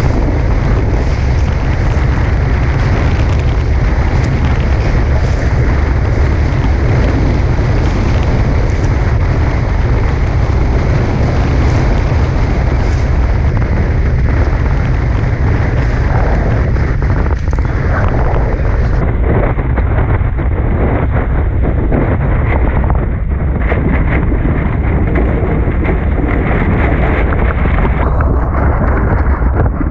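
Strong wind buffeting the microphone of a camera aboard a Tornado catamaran sailing fast, a loud, steady low rumble.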